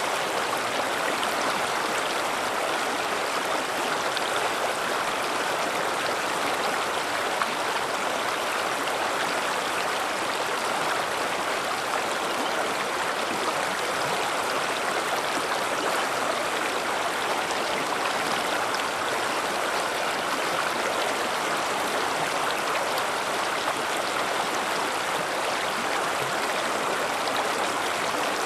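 River water running over rocks, a steady rushing and splashing that holds even throughout.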